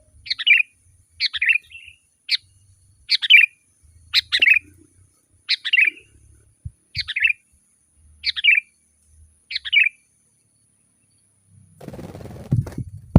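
Sooty-headed bulbul calling: about ten short, bright calls, each dropping in pitch, roughly one a second, falling quiet about ten seconds in. A low rumbling noise follows near the end.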